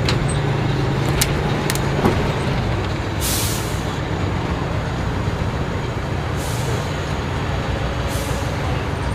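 Heavy truck engine running steadily, with a few sharp clicks in the first two seconds and three short bursts of hiss, each about half a second, spread through the rest.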